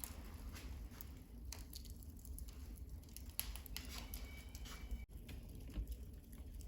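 Wood fire in a fireplace crackling, with scattered sharp pops over the low rumble of the flames. A brief thin whistle sounds about four seconds in.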